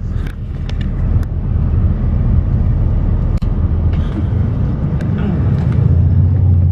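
Shuttle bus engine running, heard from inside the cabin as a loud, steady low drone, with scattered knocks and rattles.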